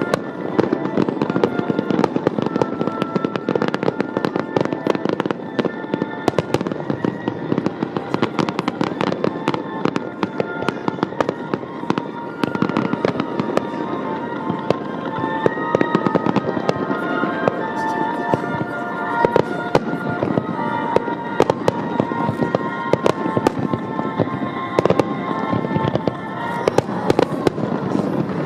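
Fireworks display: a dense, continuous run of rapid crackles and pops from bursting shells, with music playing alongside.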